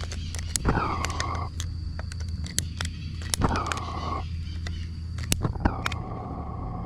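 Repeated sharp clicks and two short hissing bursts, about a second apart from two seconds in, as the gas burner of a Roundhouse Lady Anne live steam locomotive is lit and takes several tries to stay alight.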